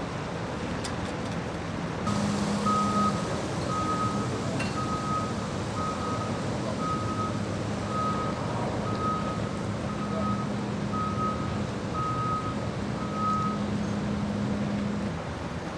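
A truck's reversing alarm beeping at an even pace, a little more than one beep a second, over a steady engine hum. Both start about two seconds in; the beeping stops near the end, with the hum lasting a little longer, all over a constant background noise.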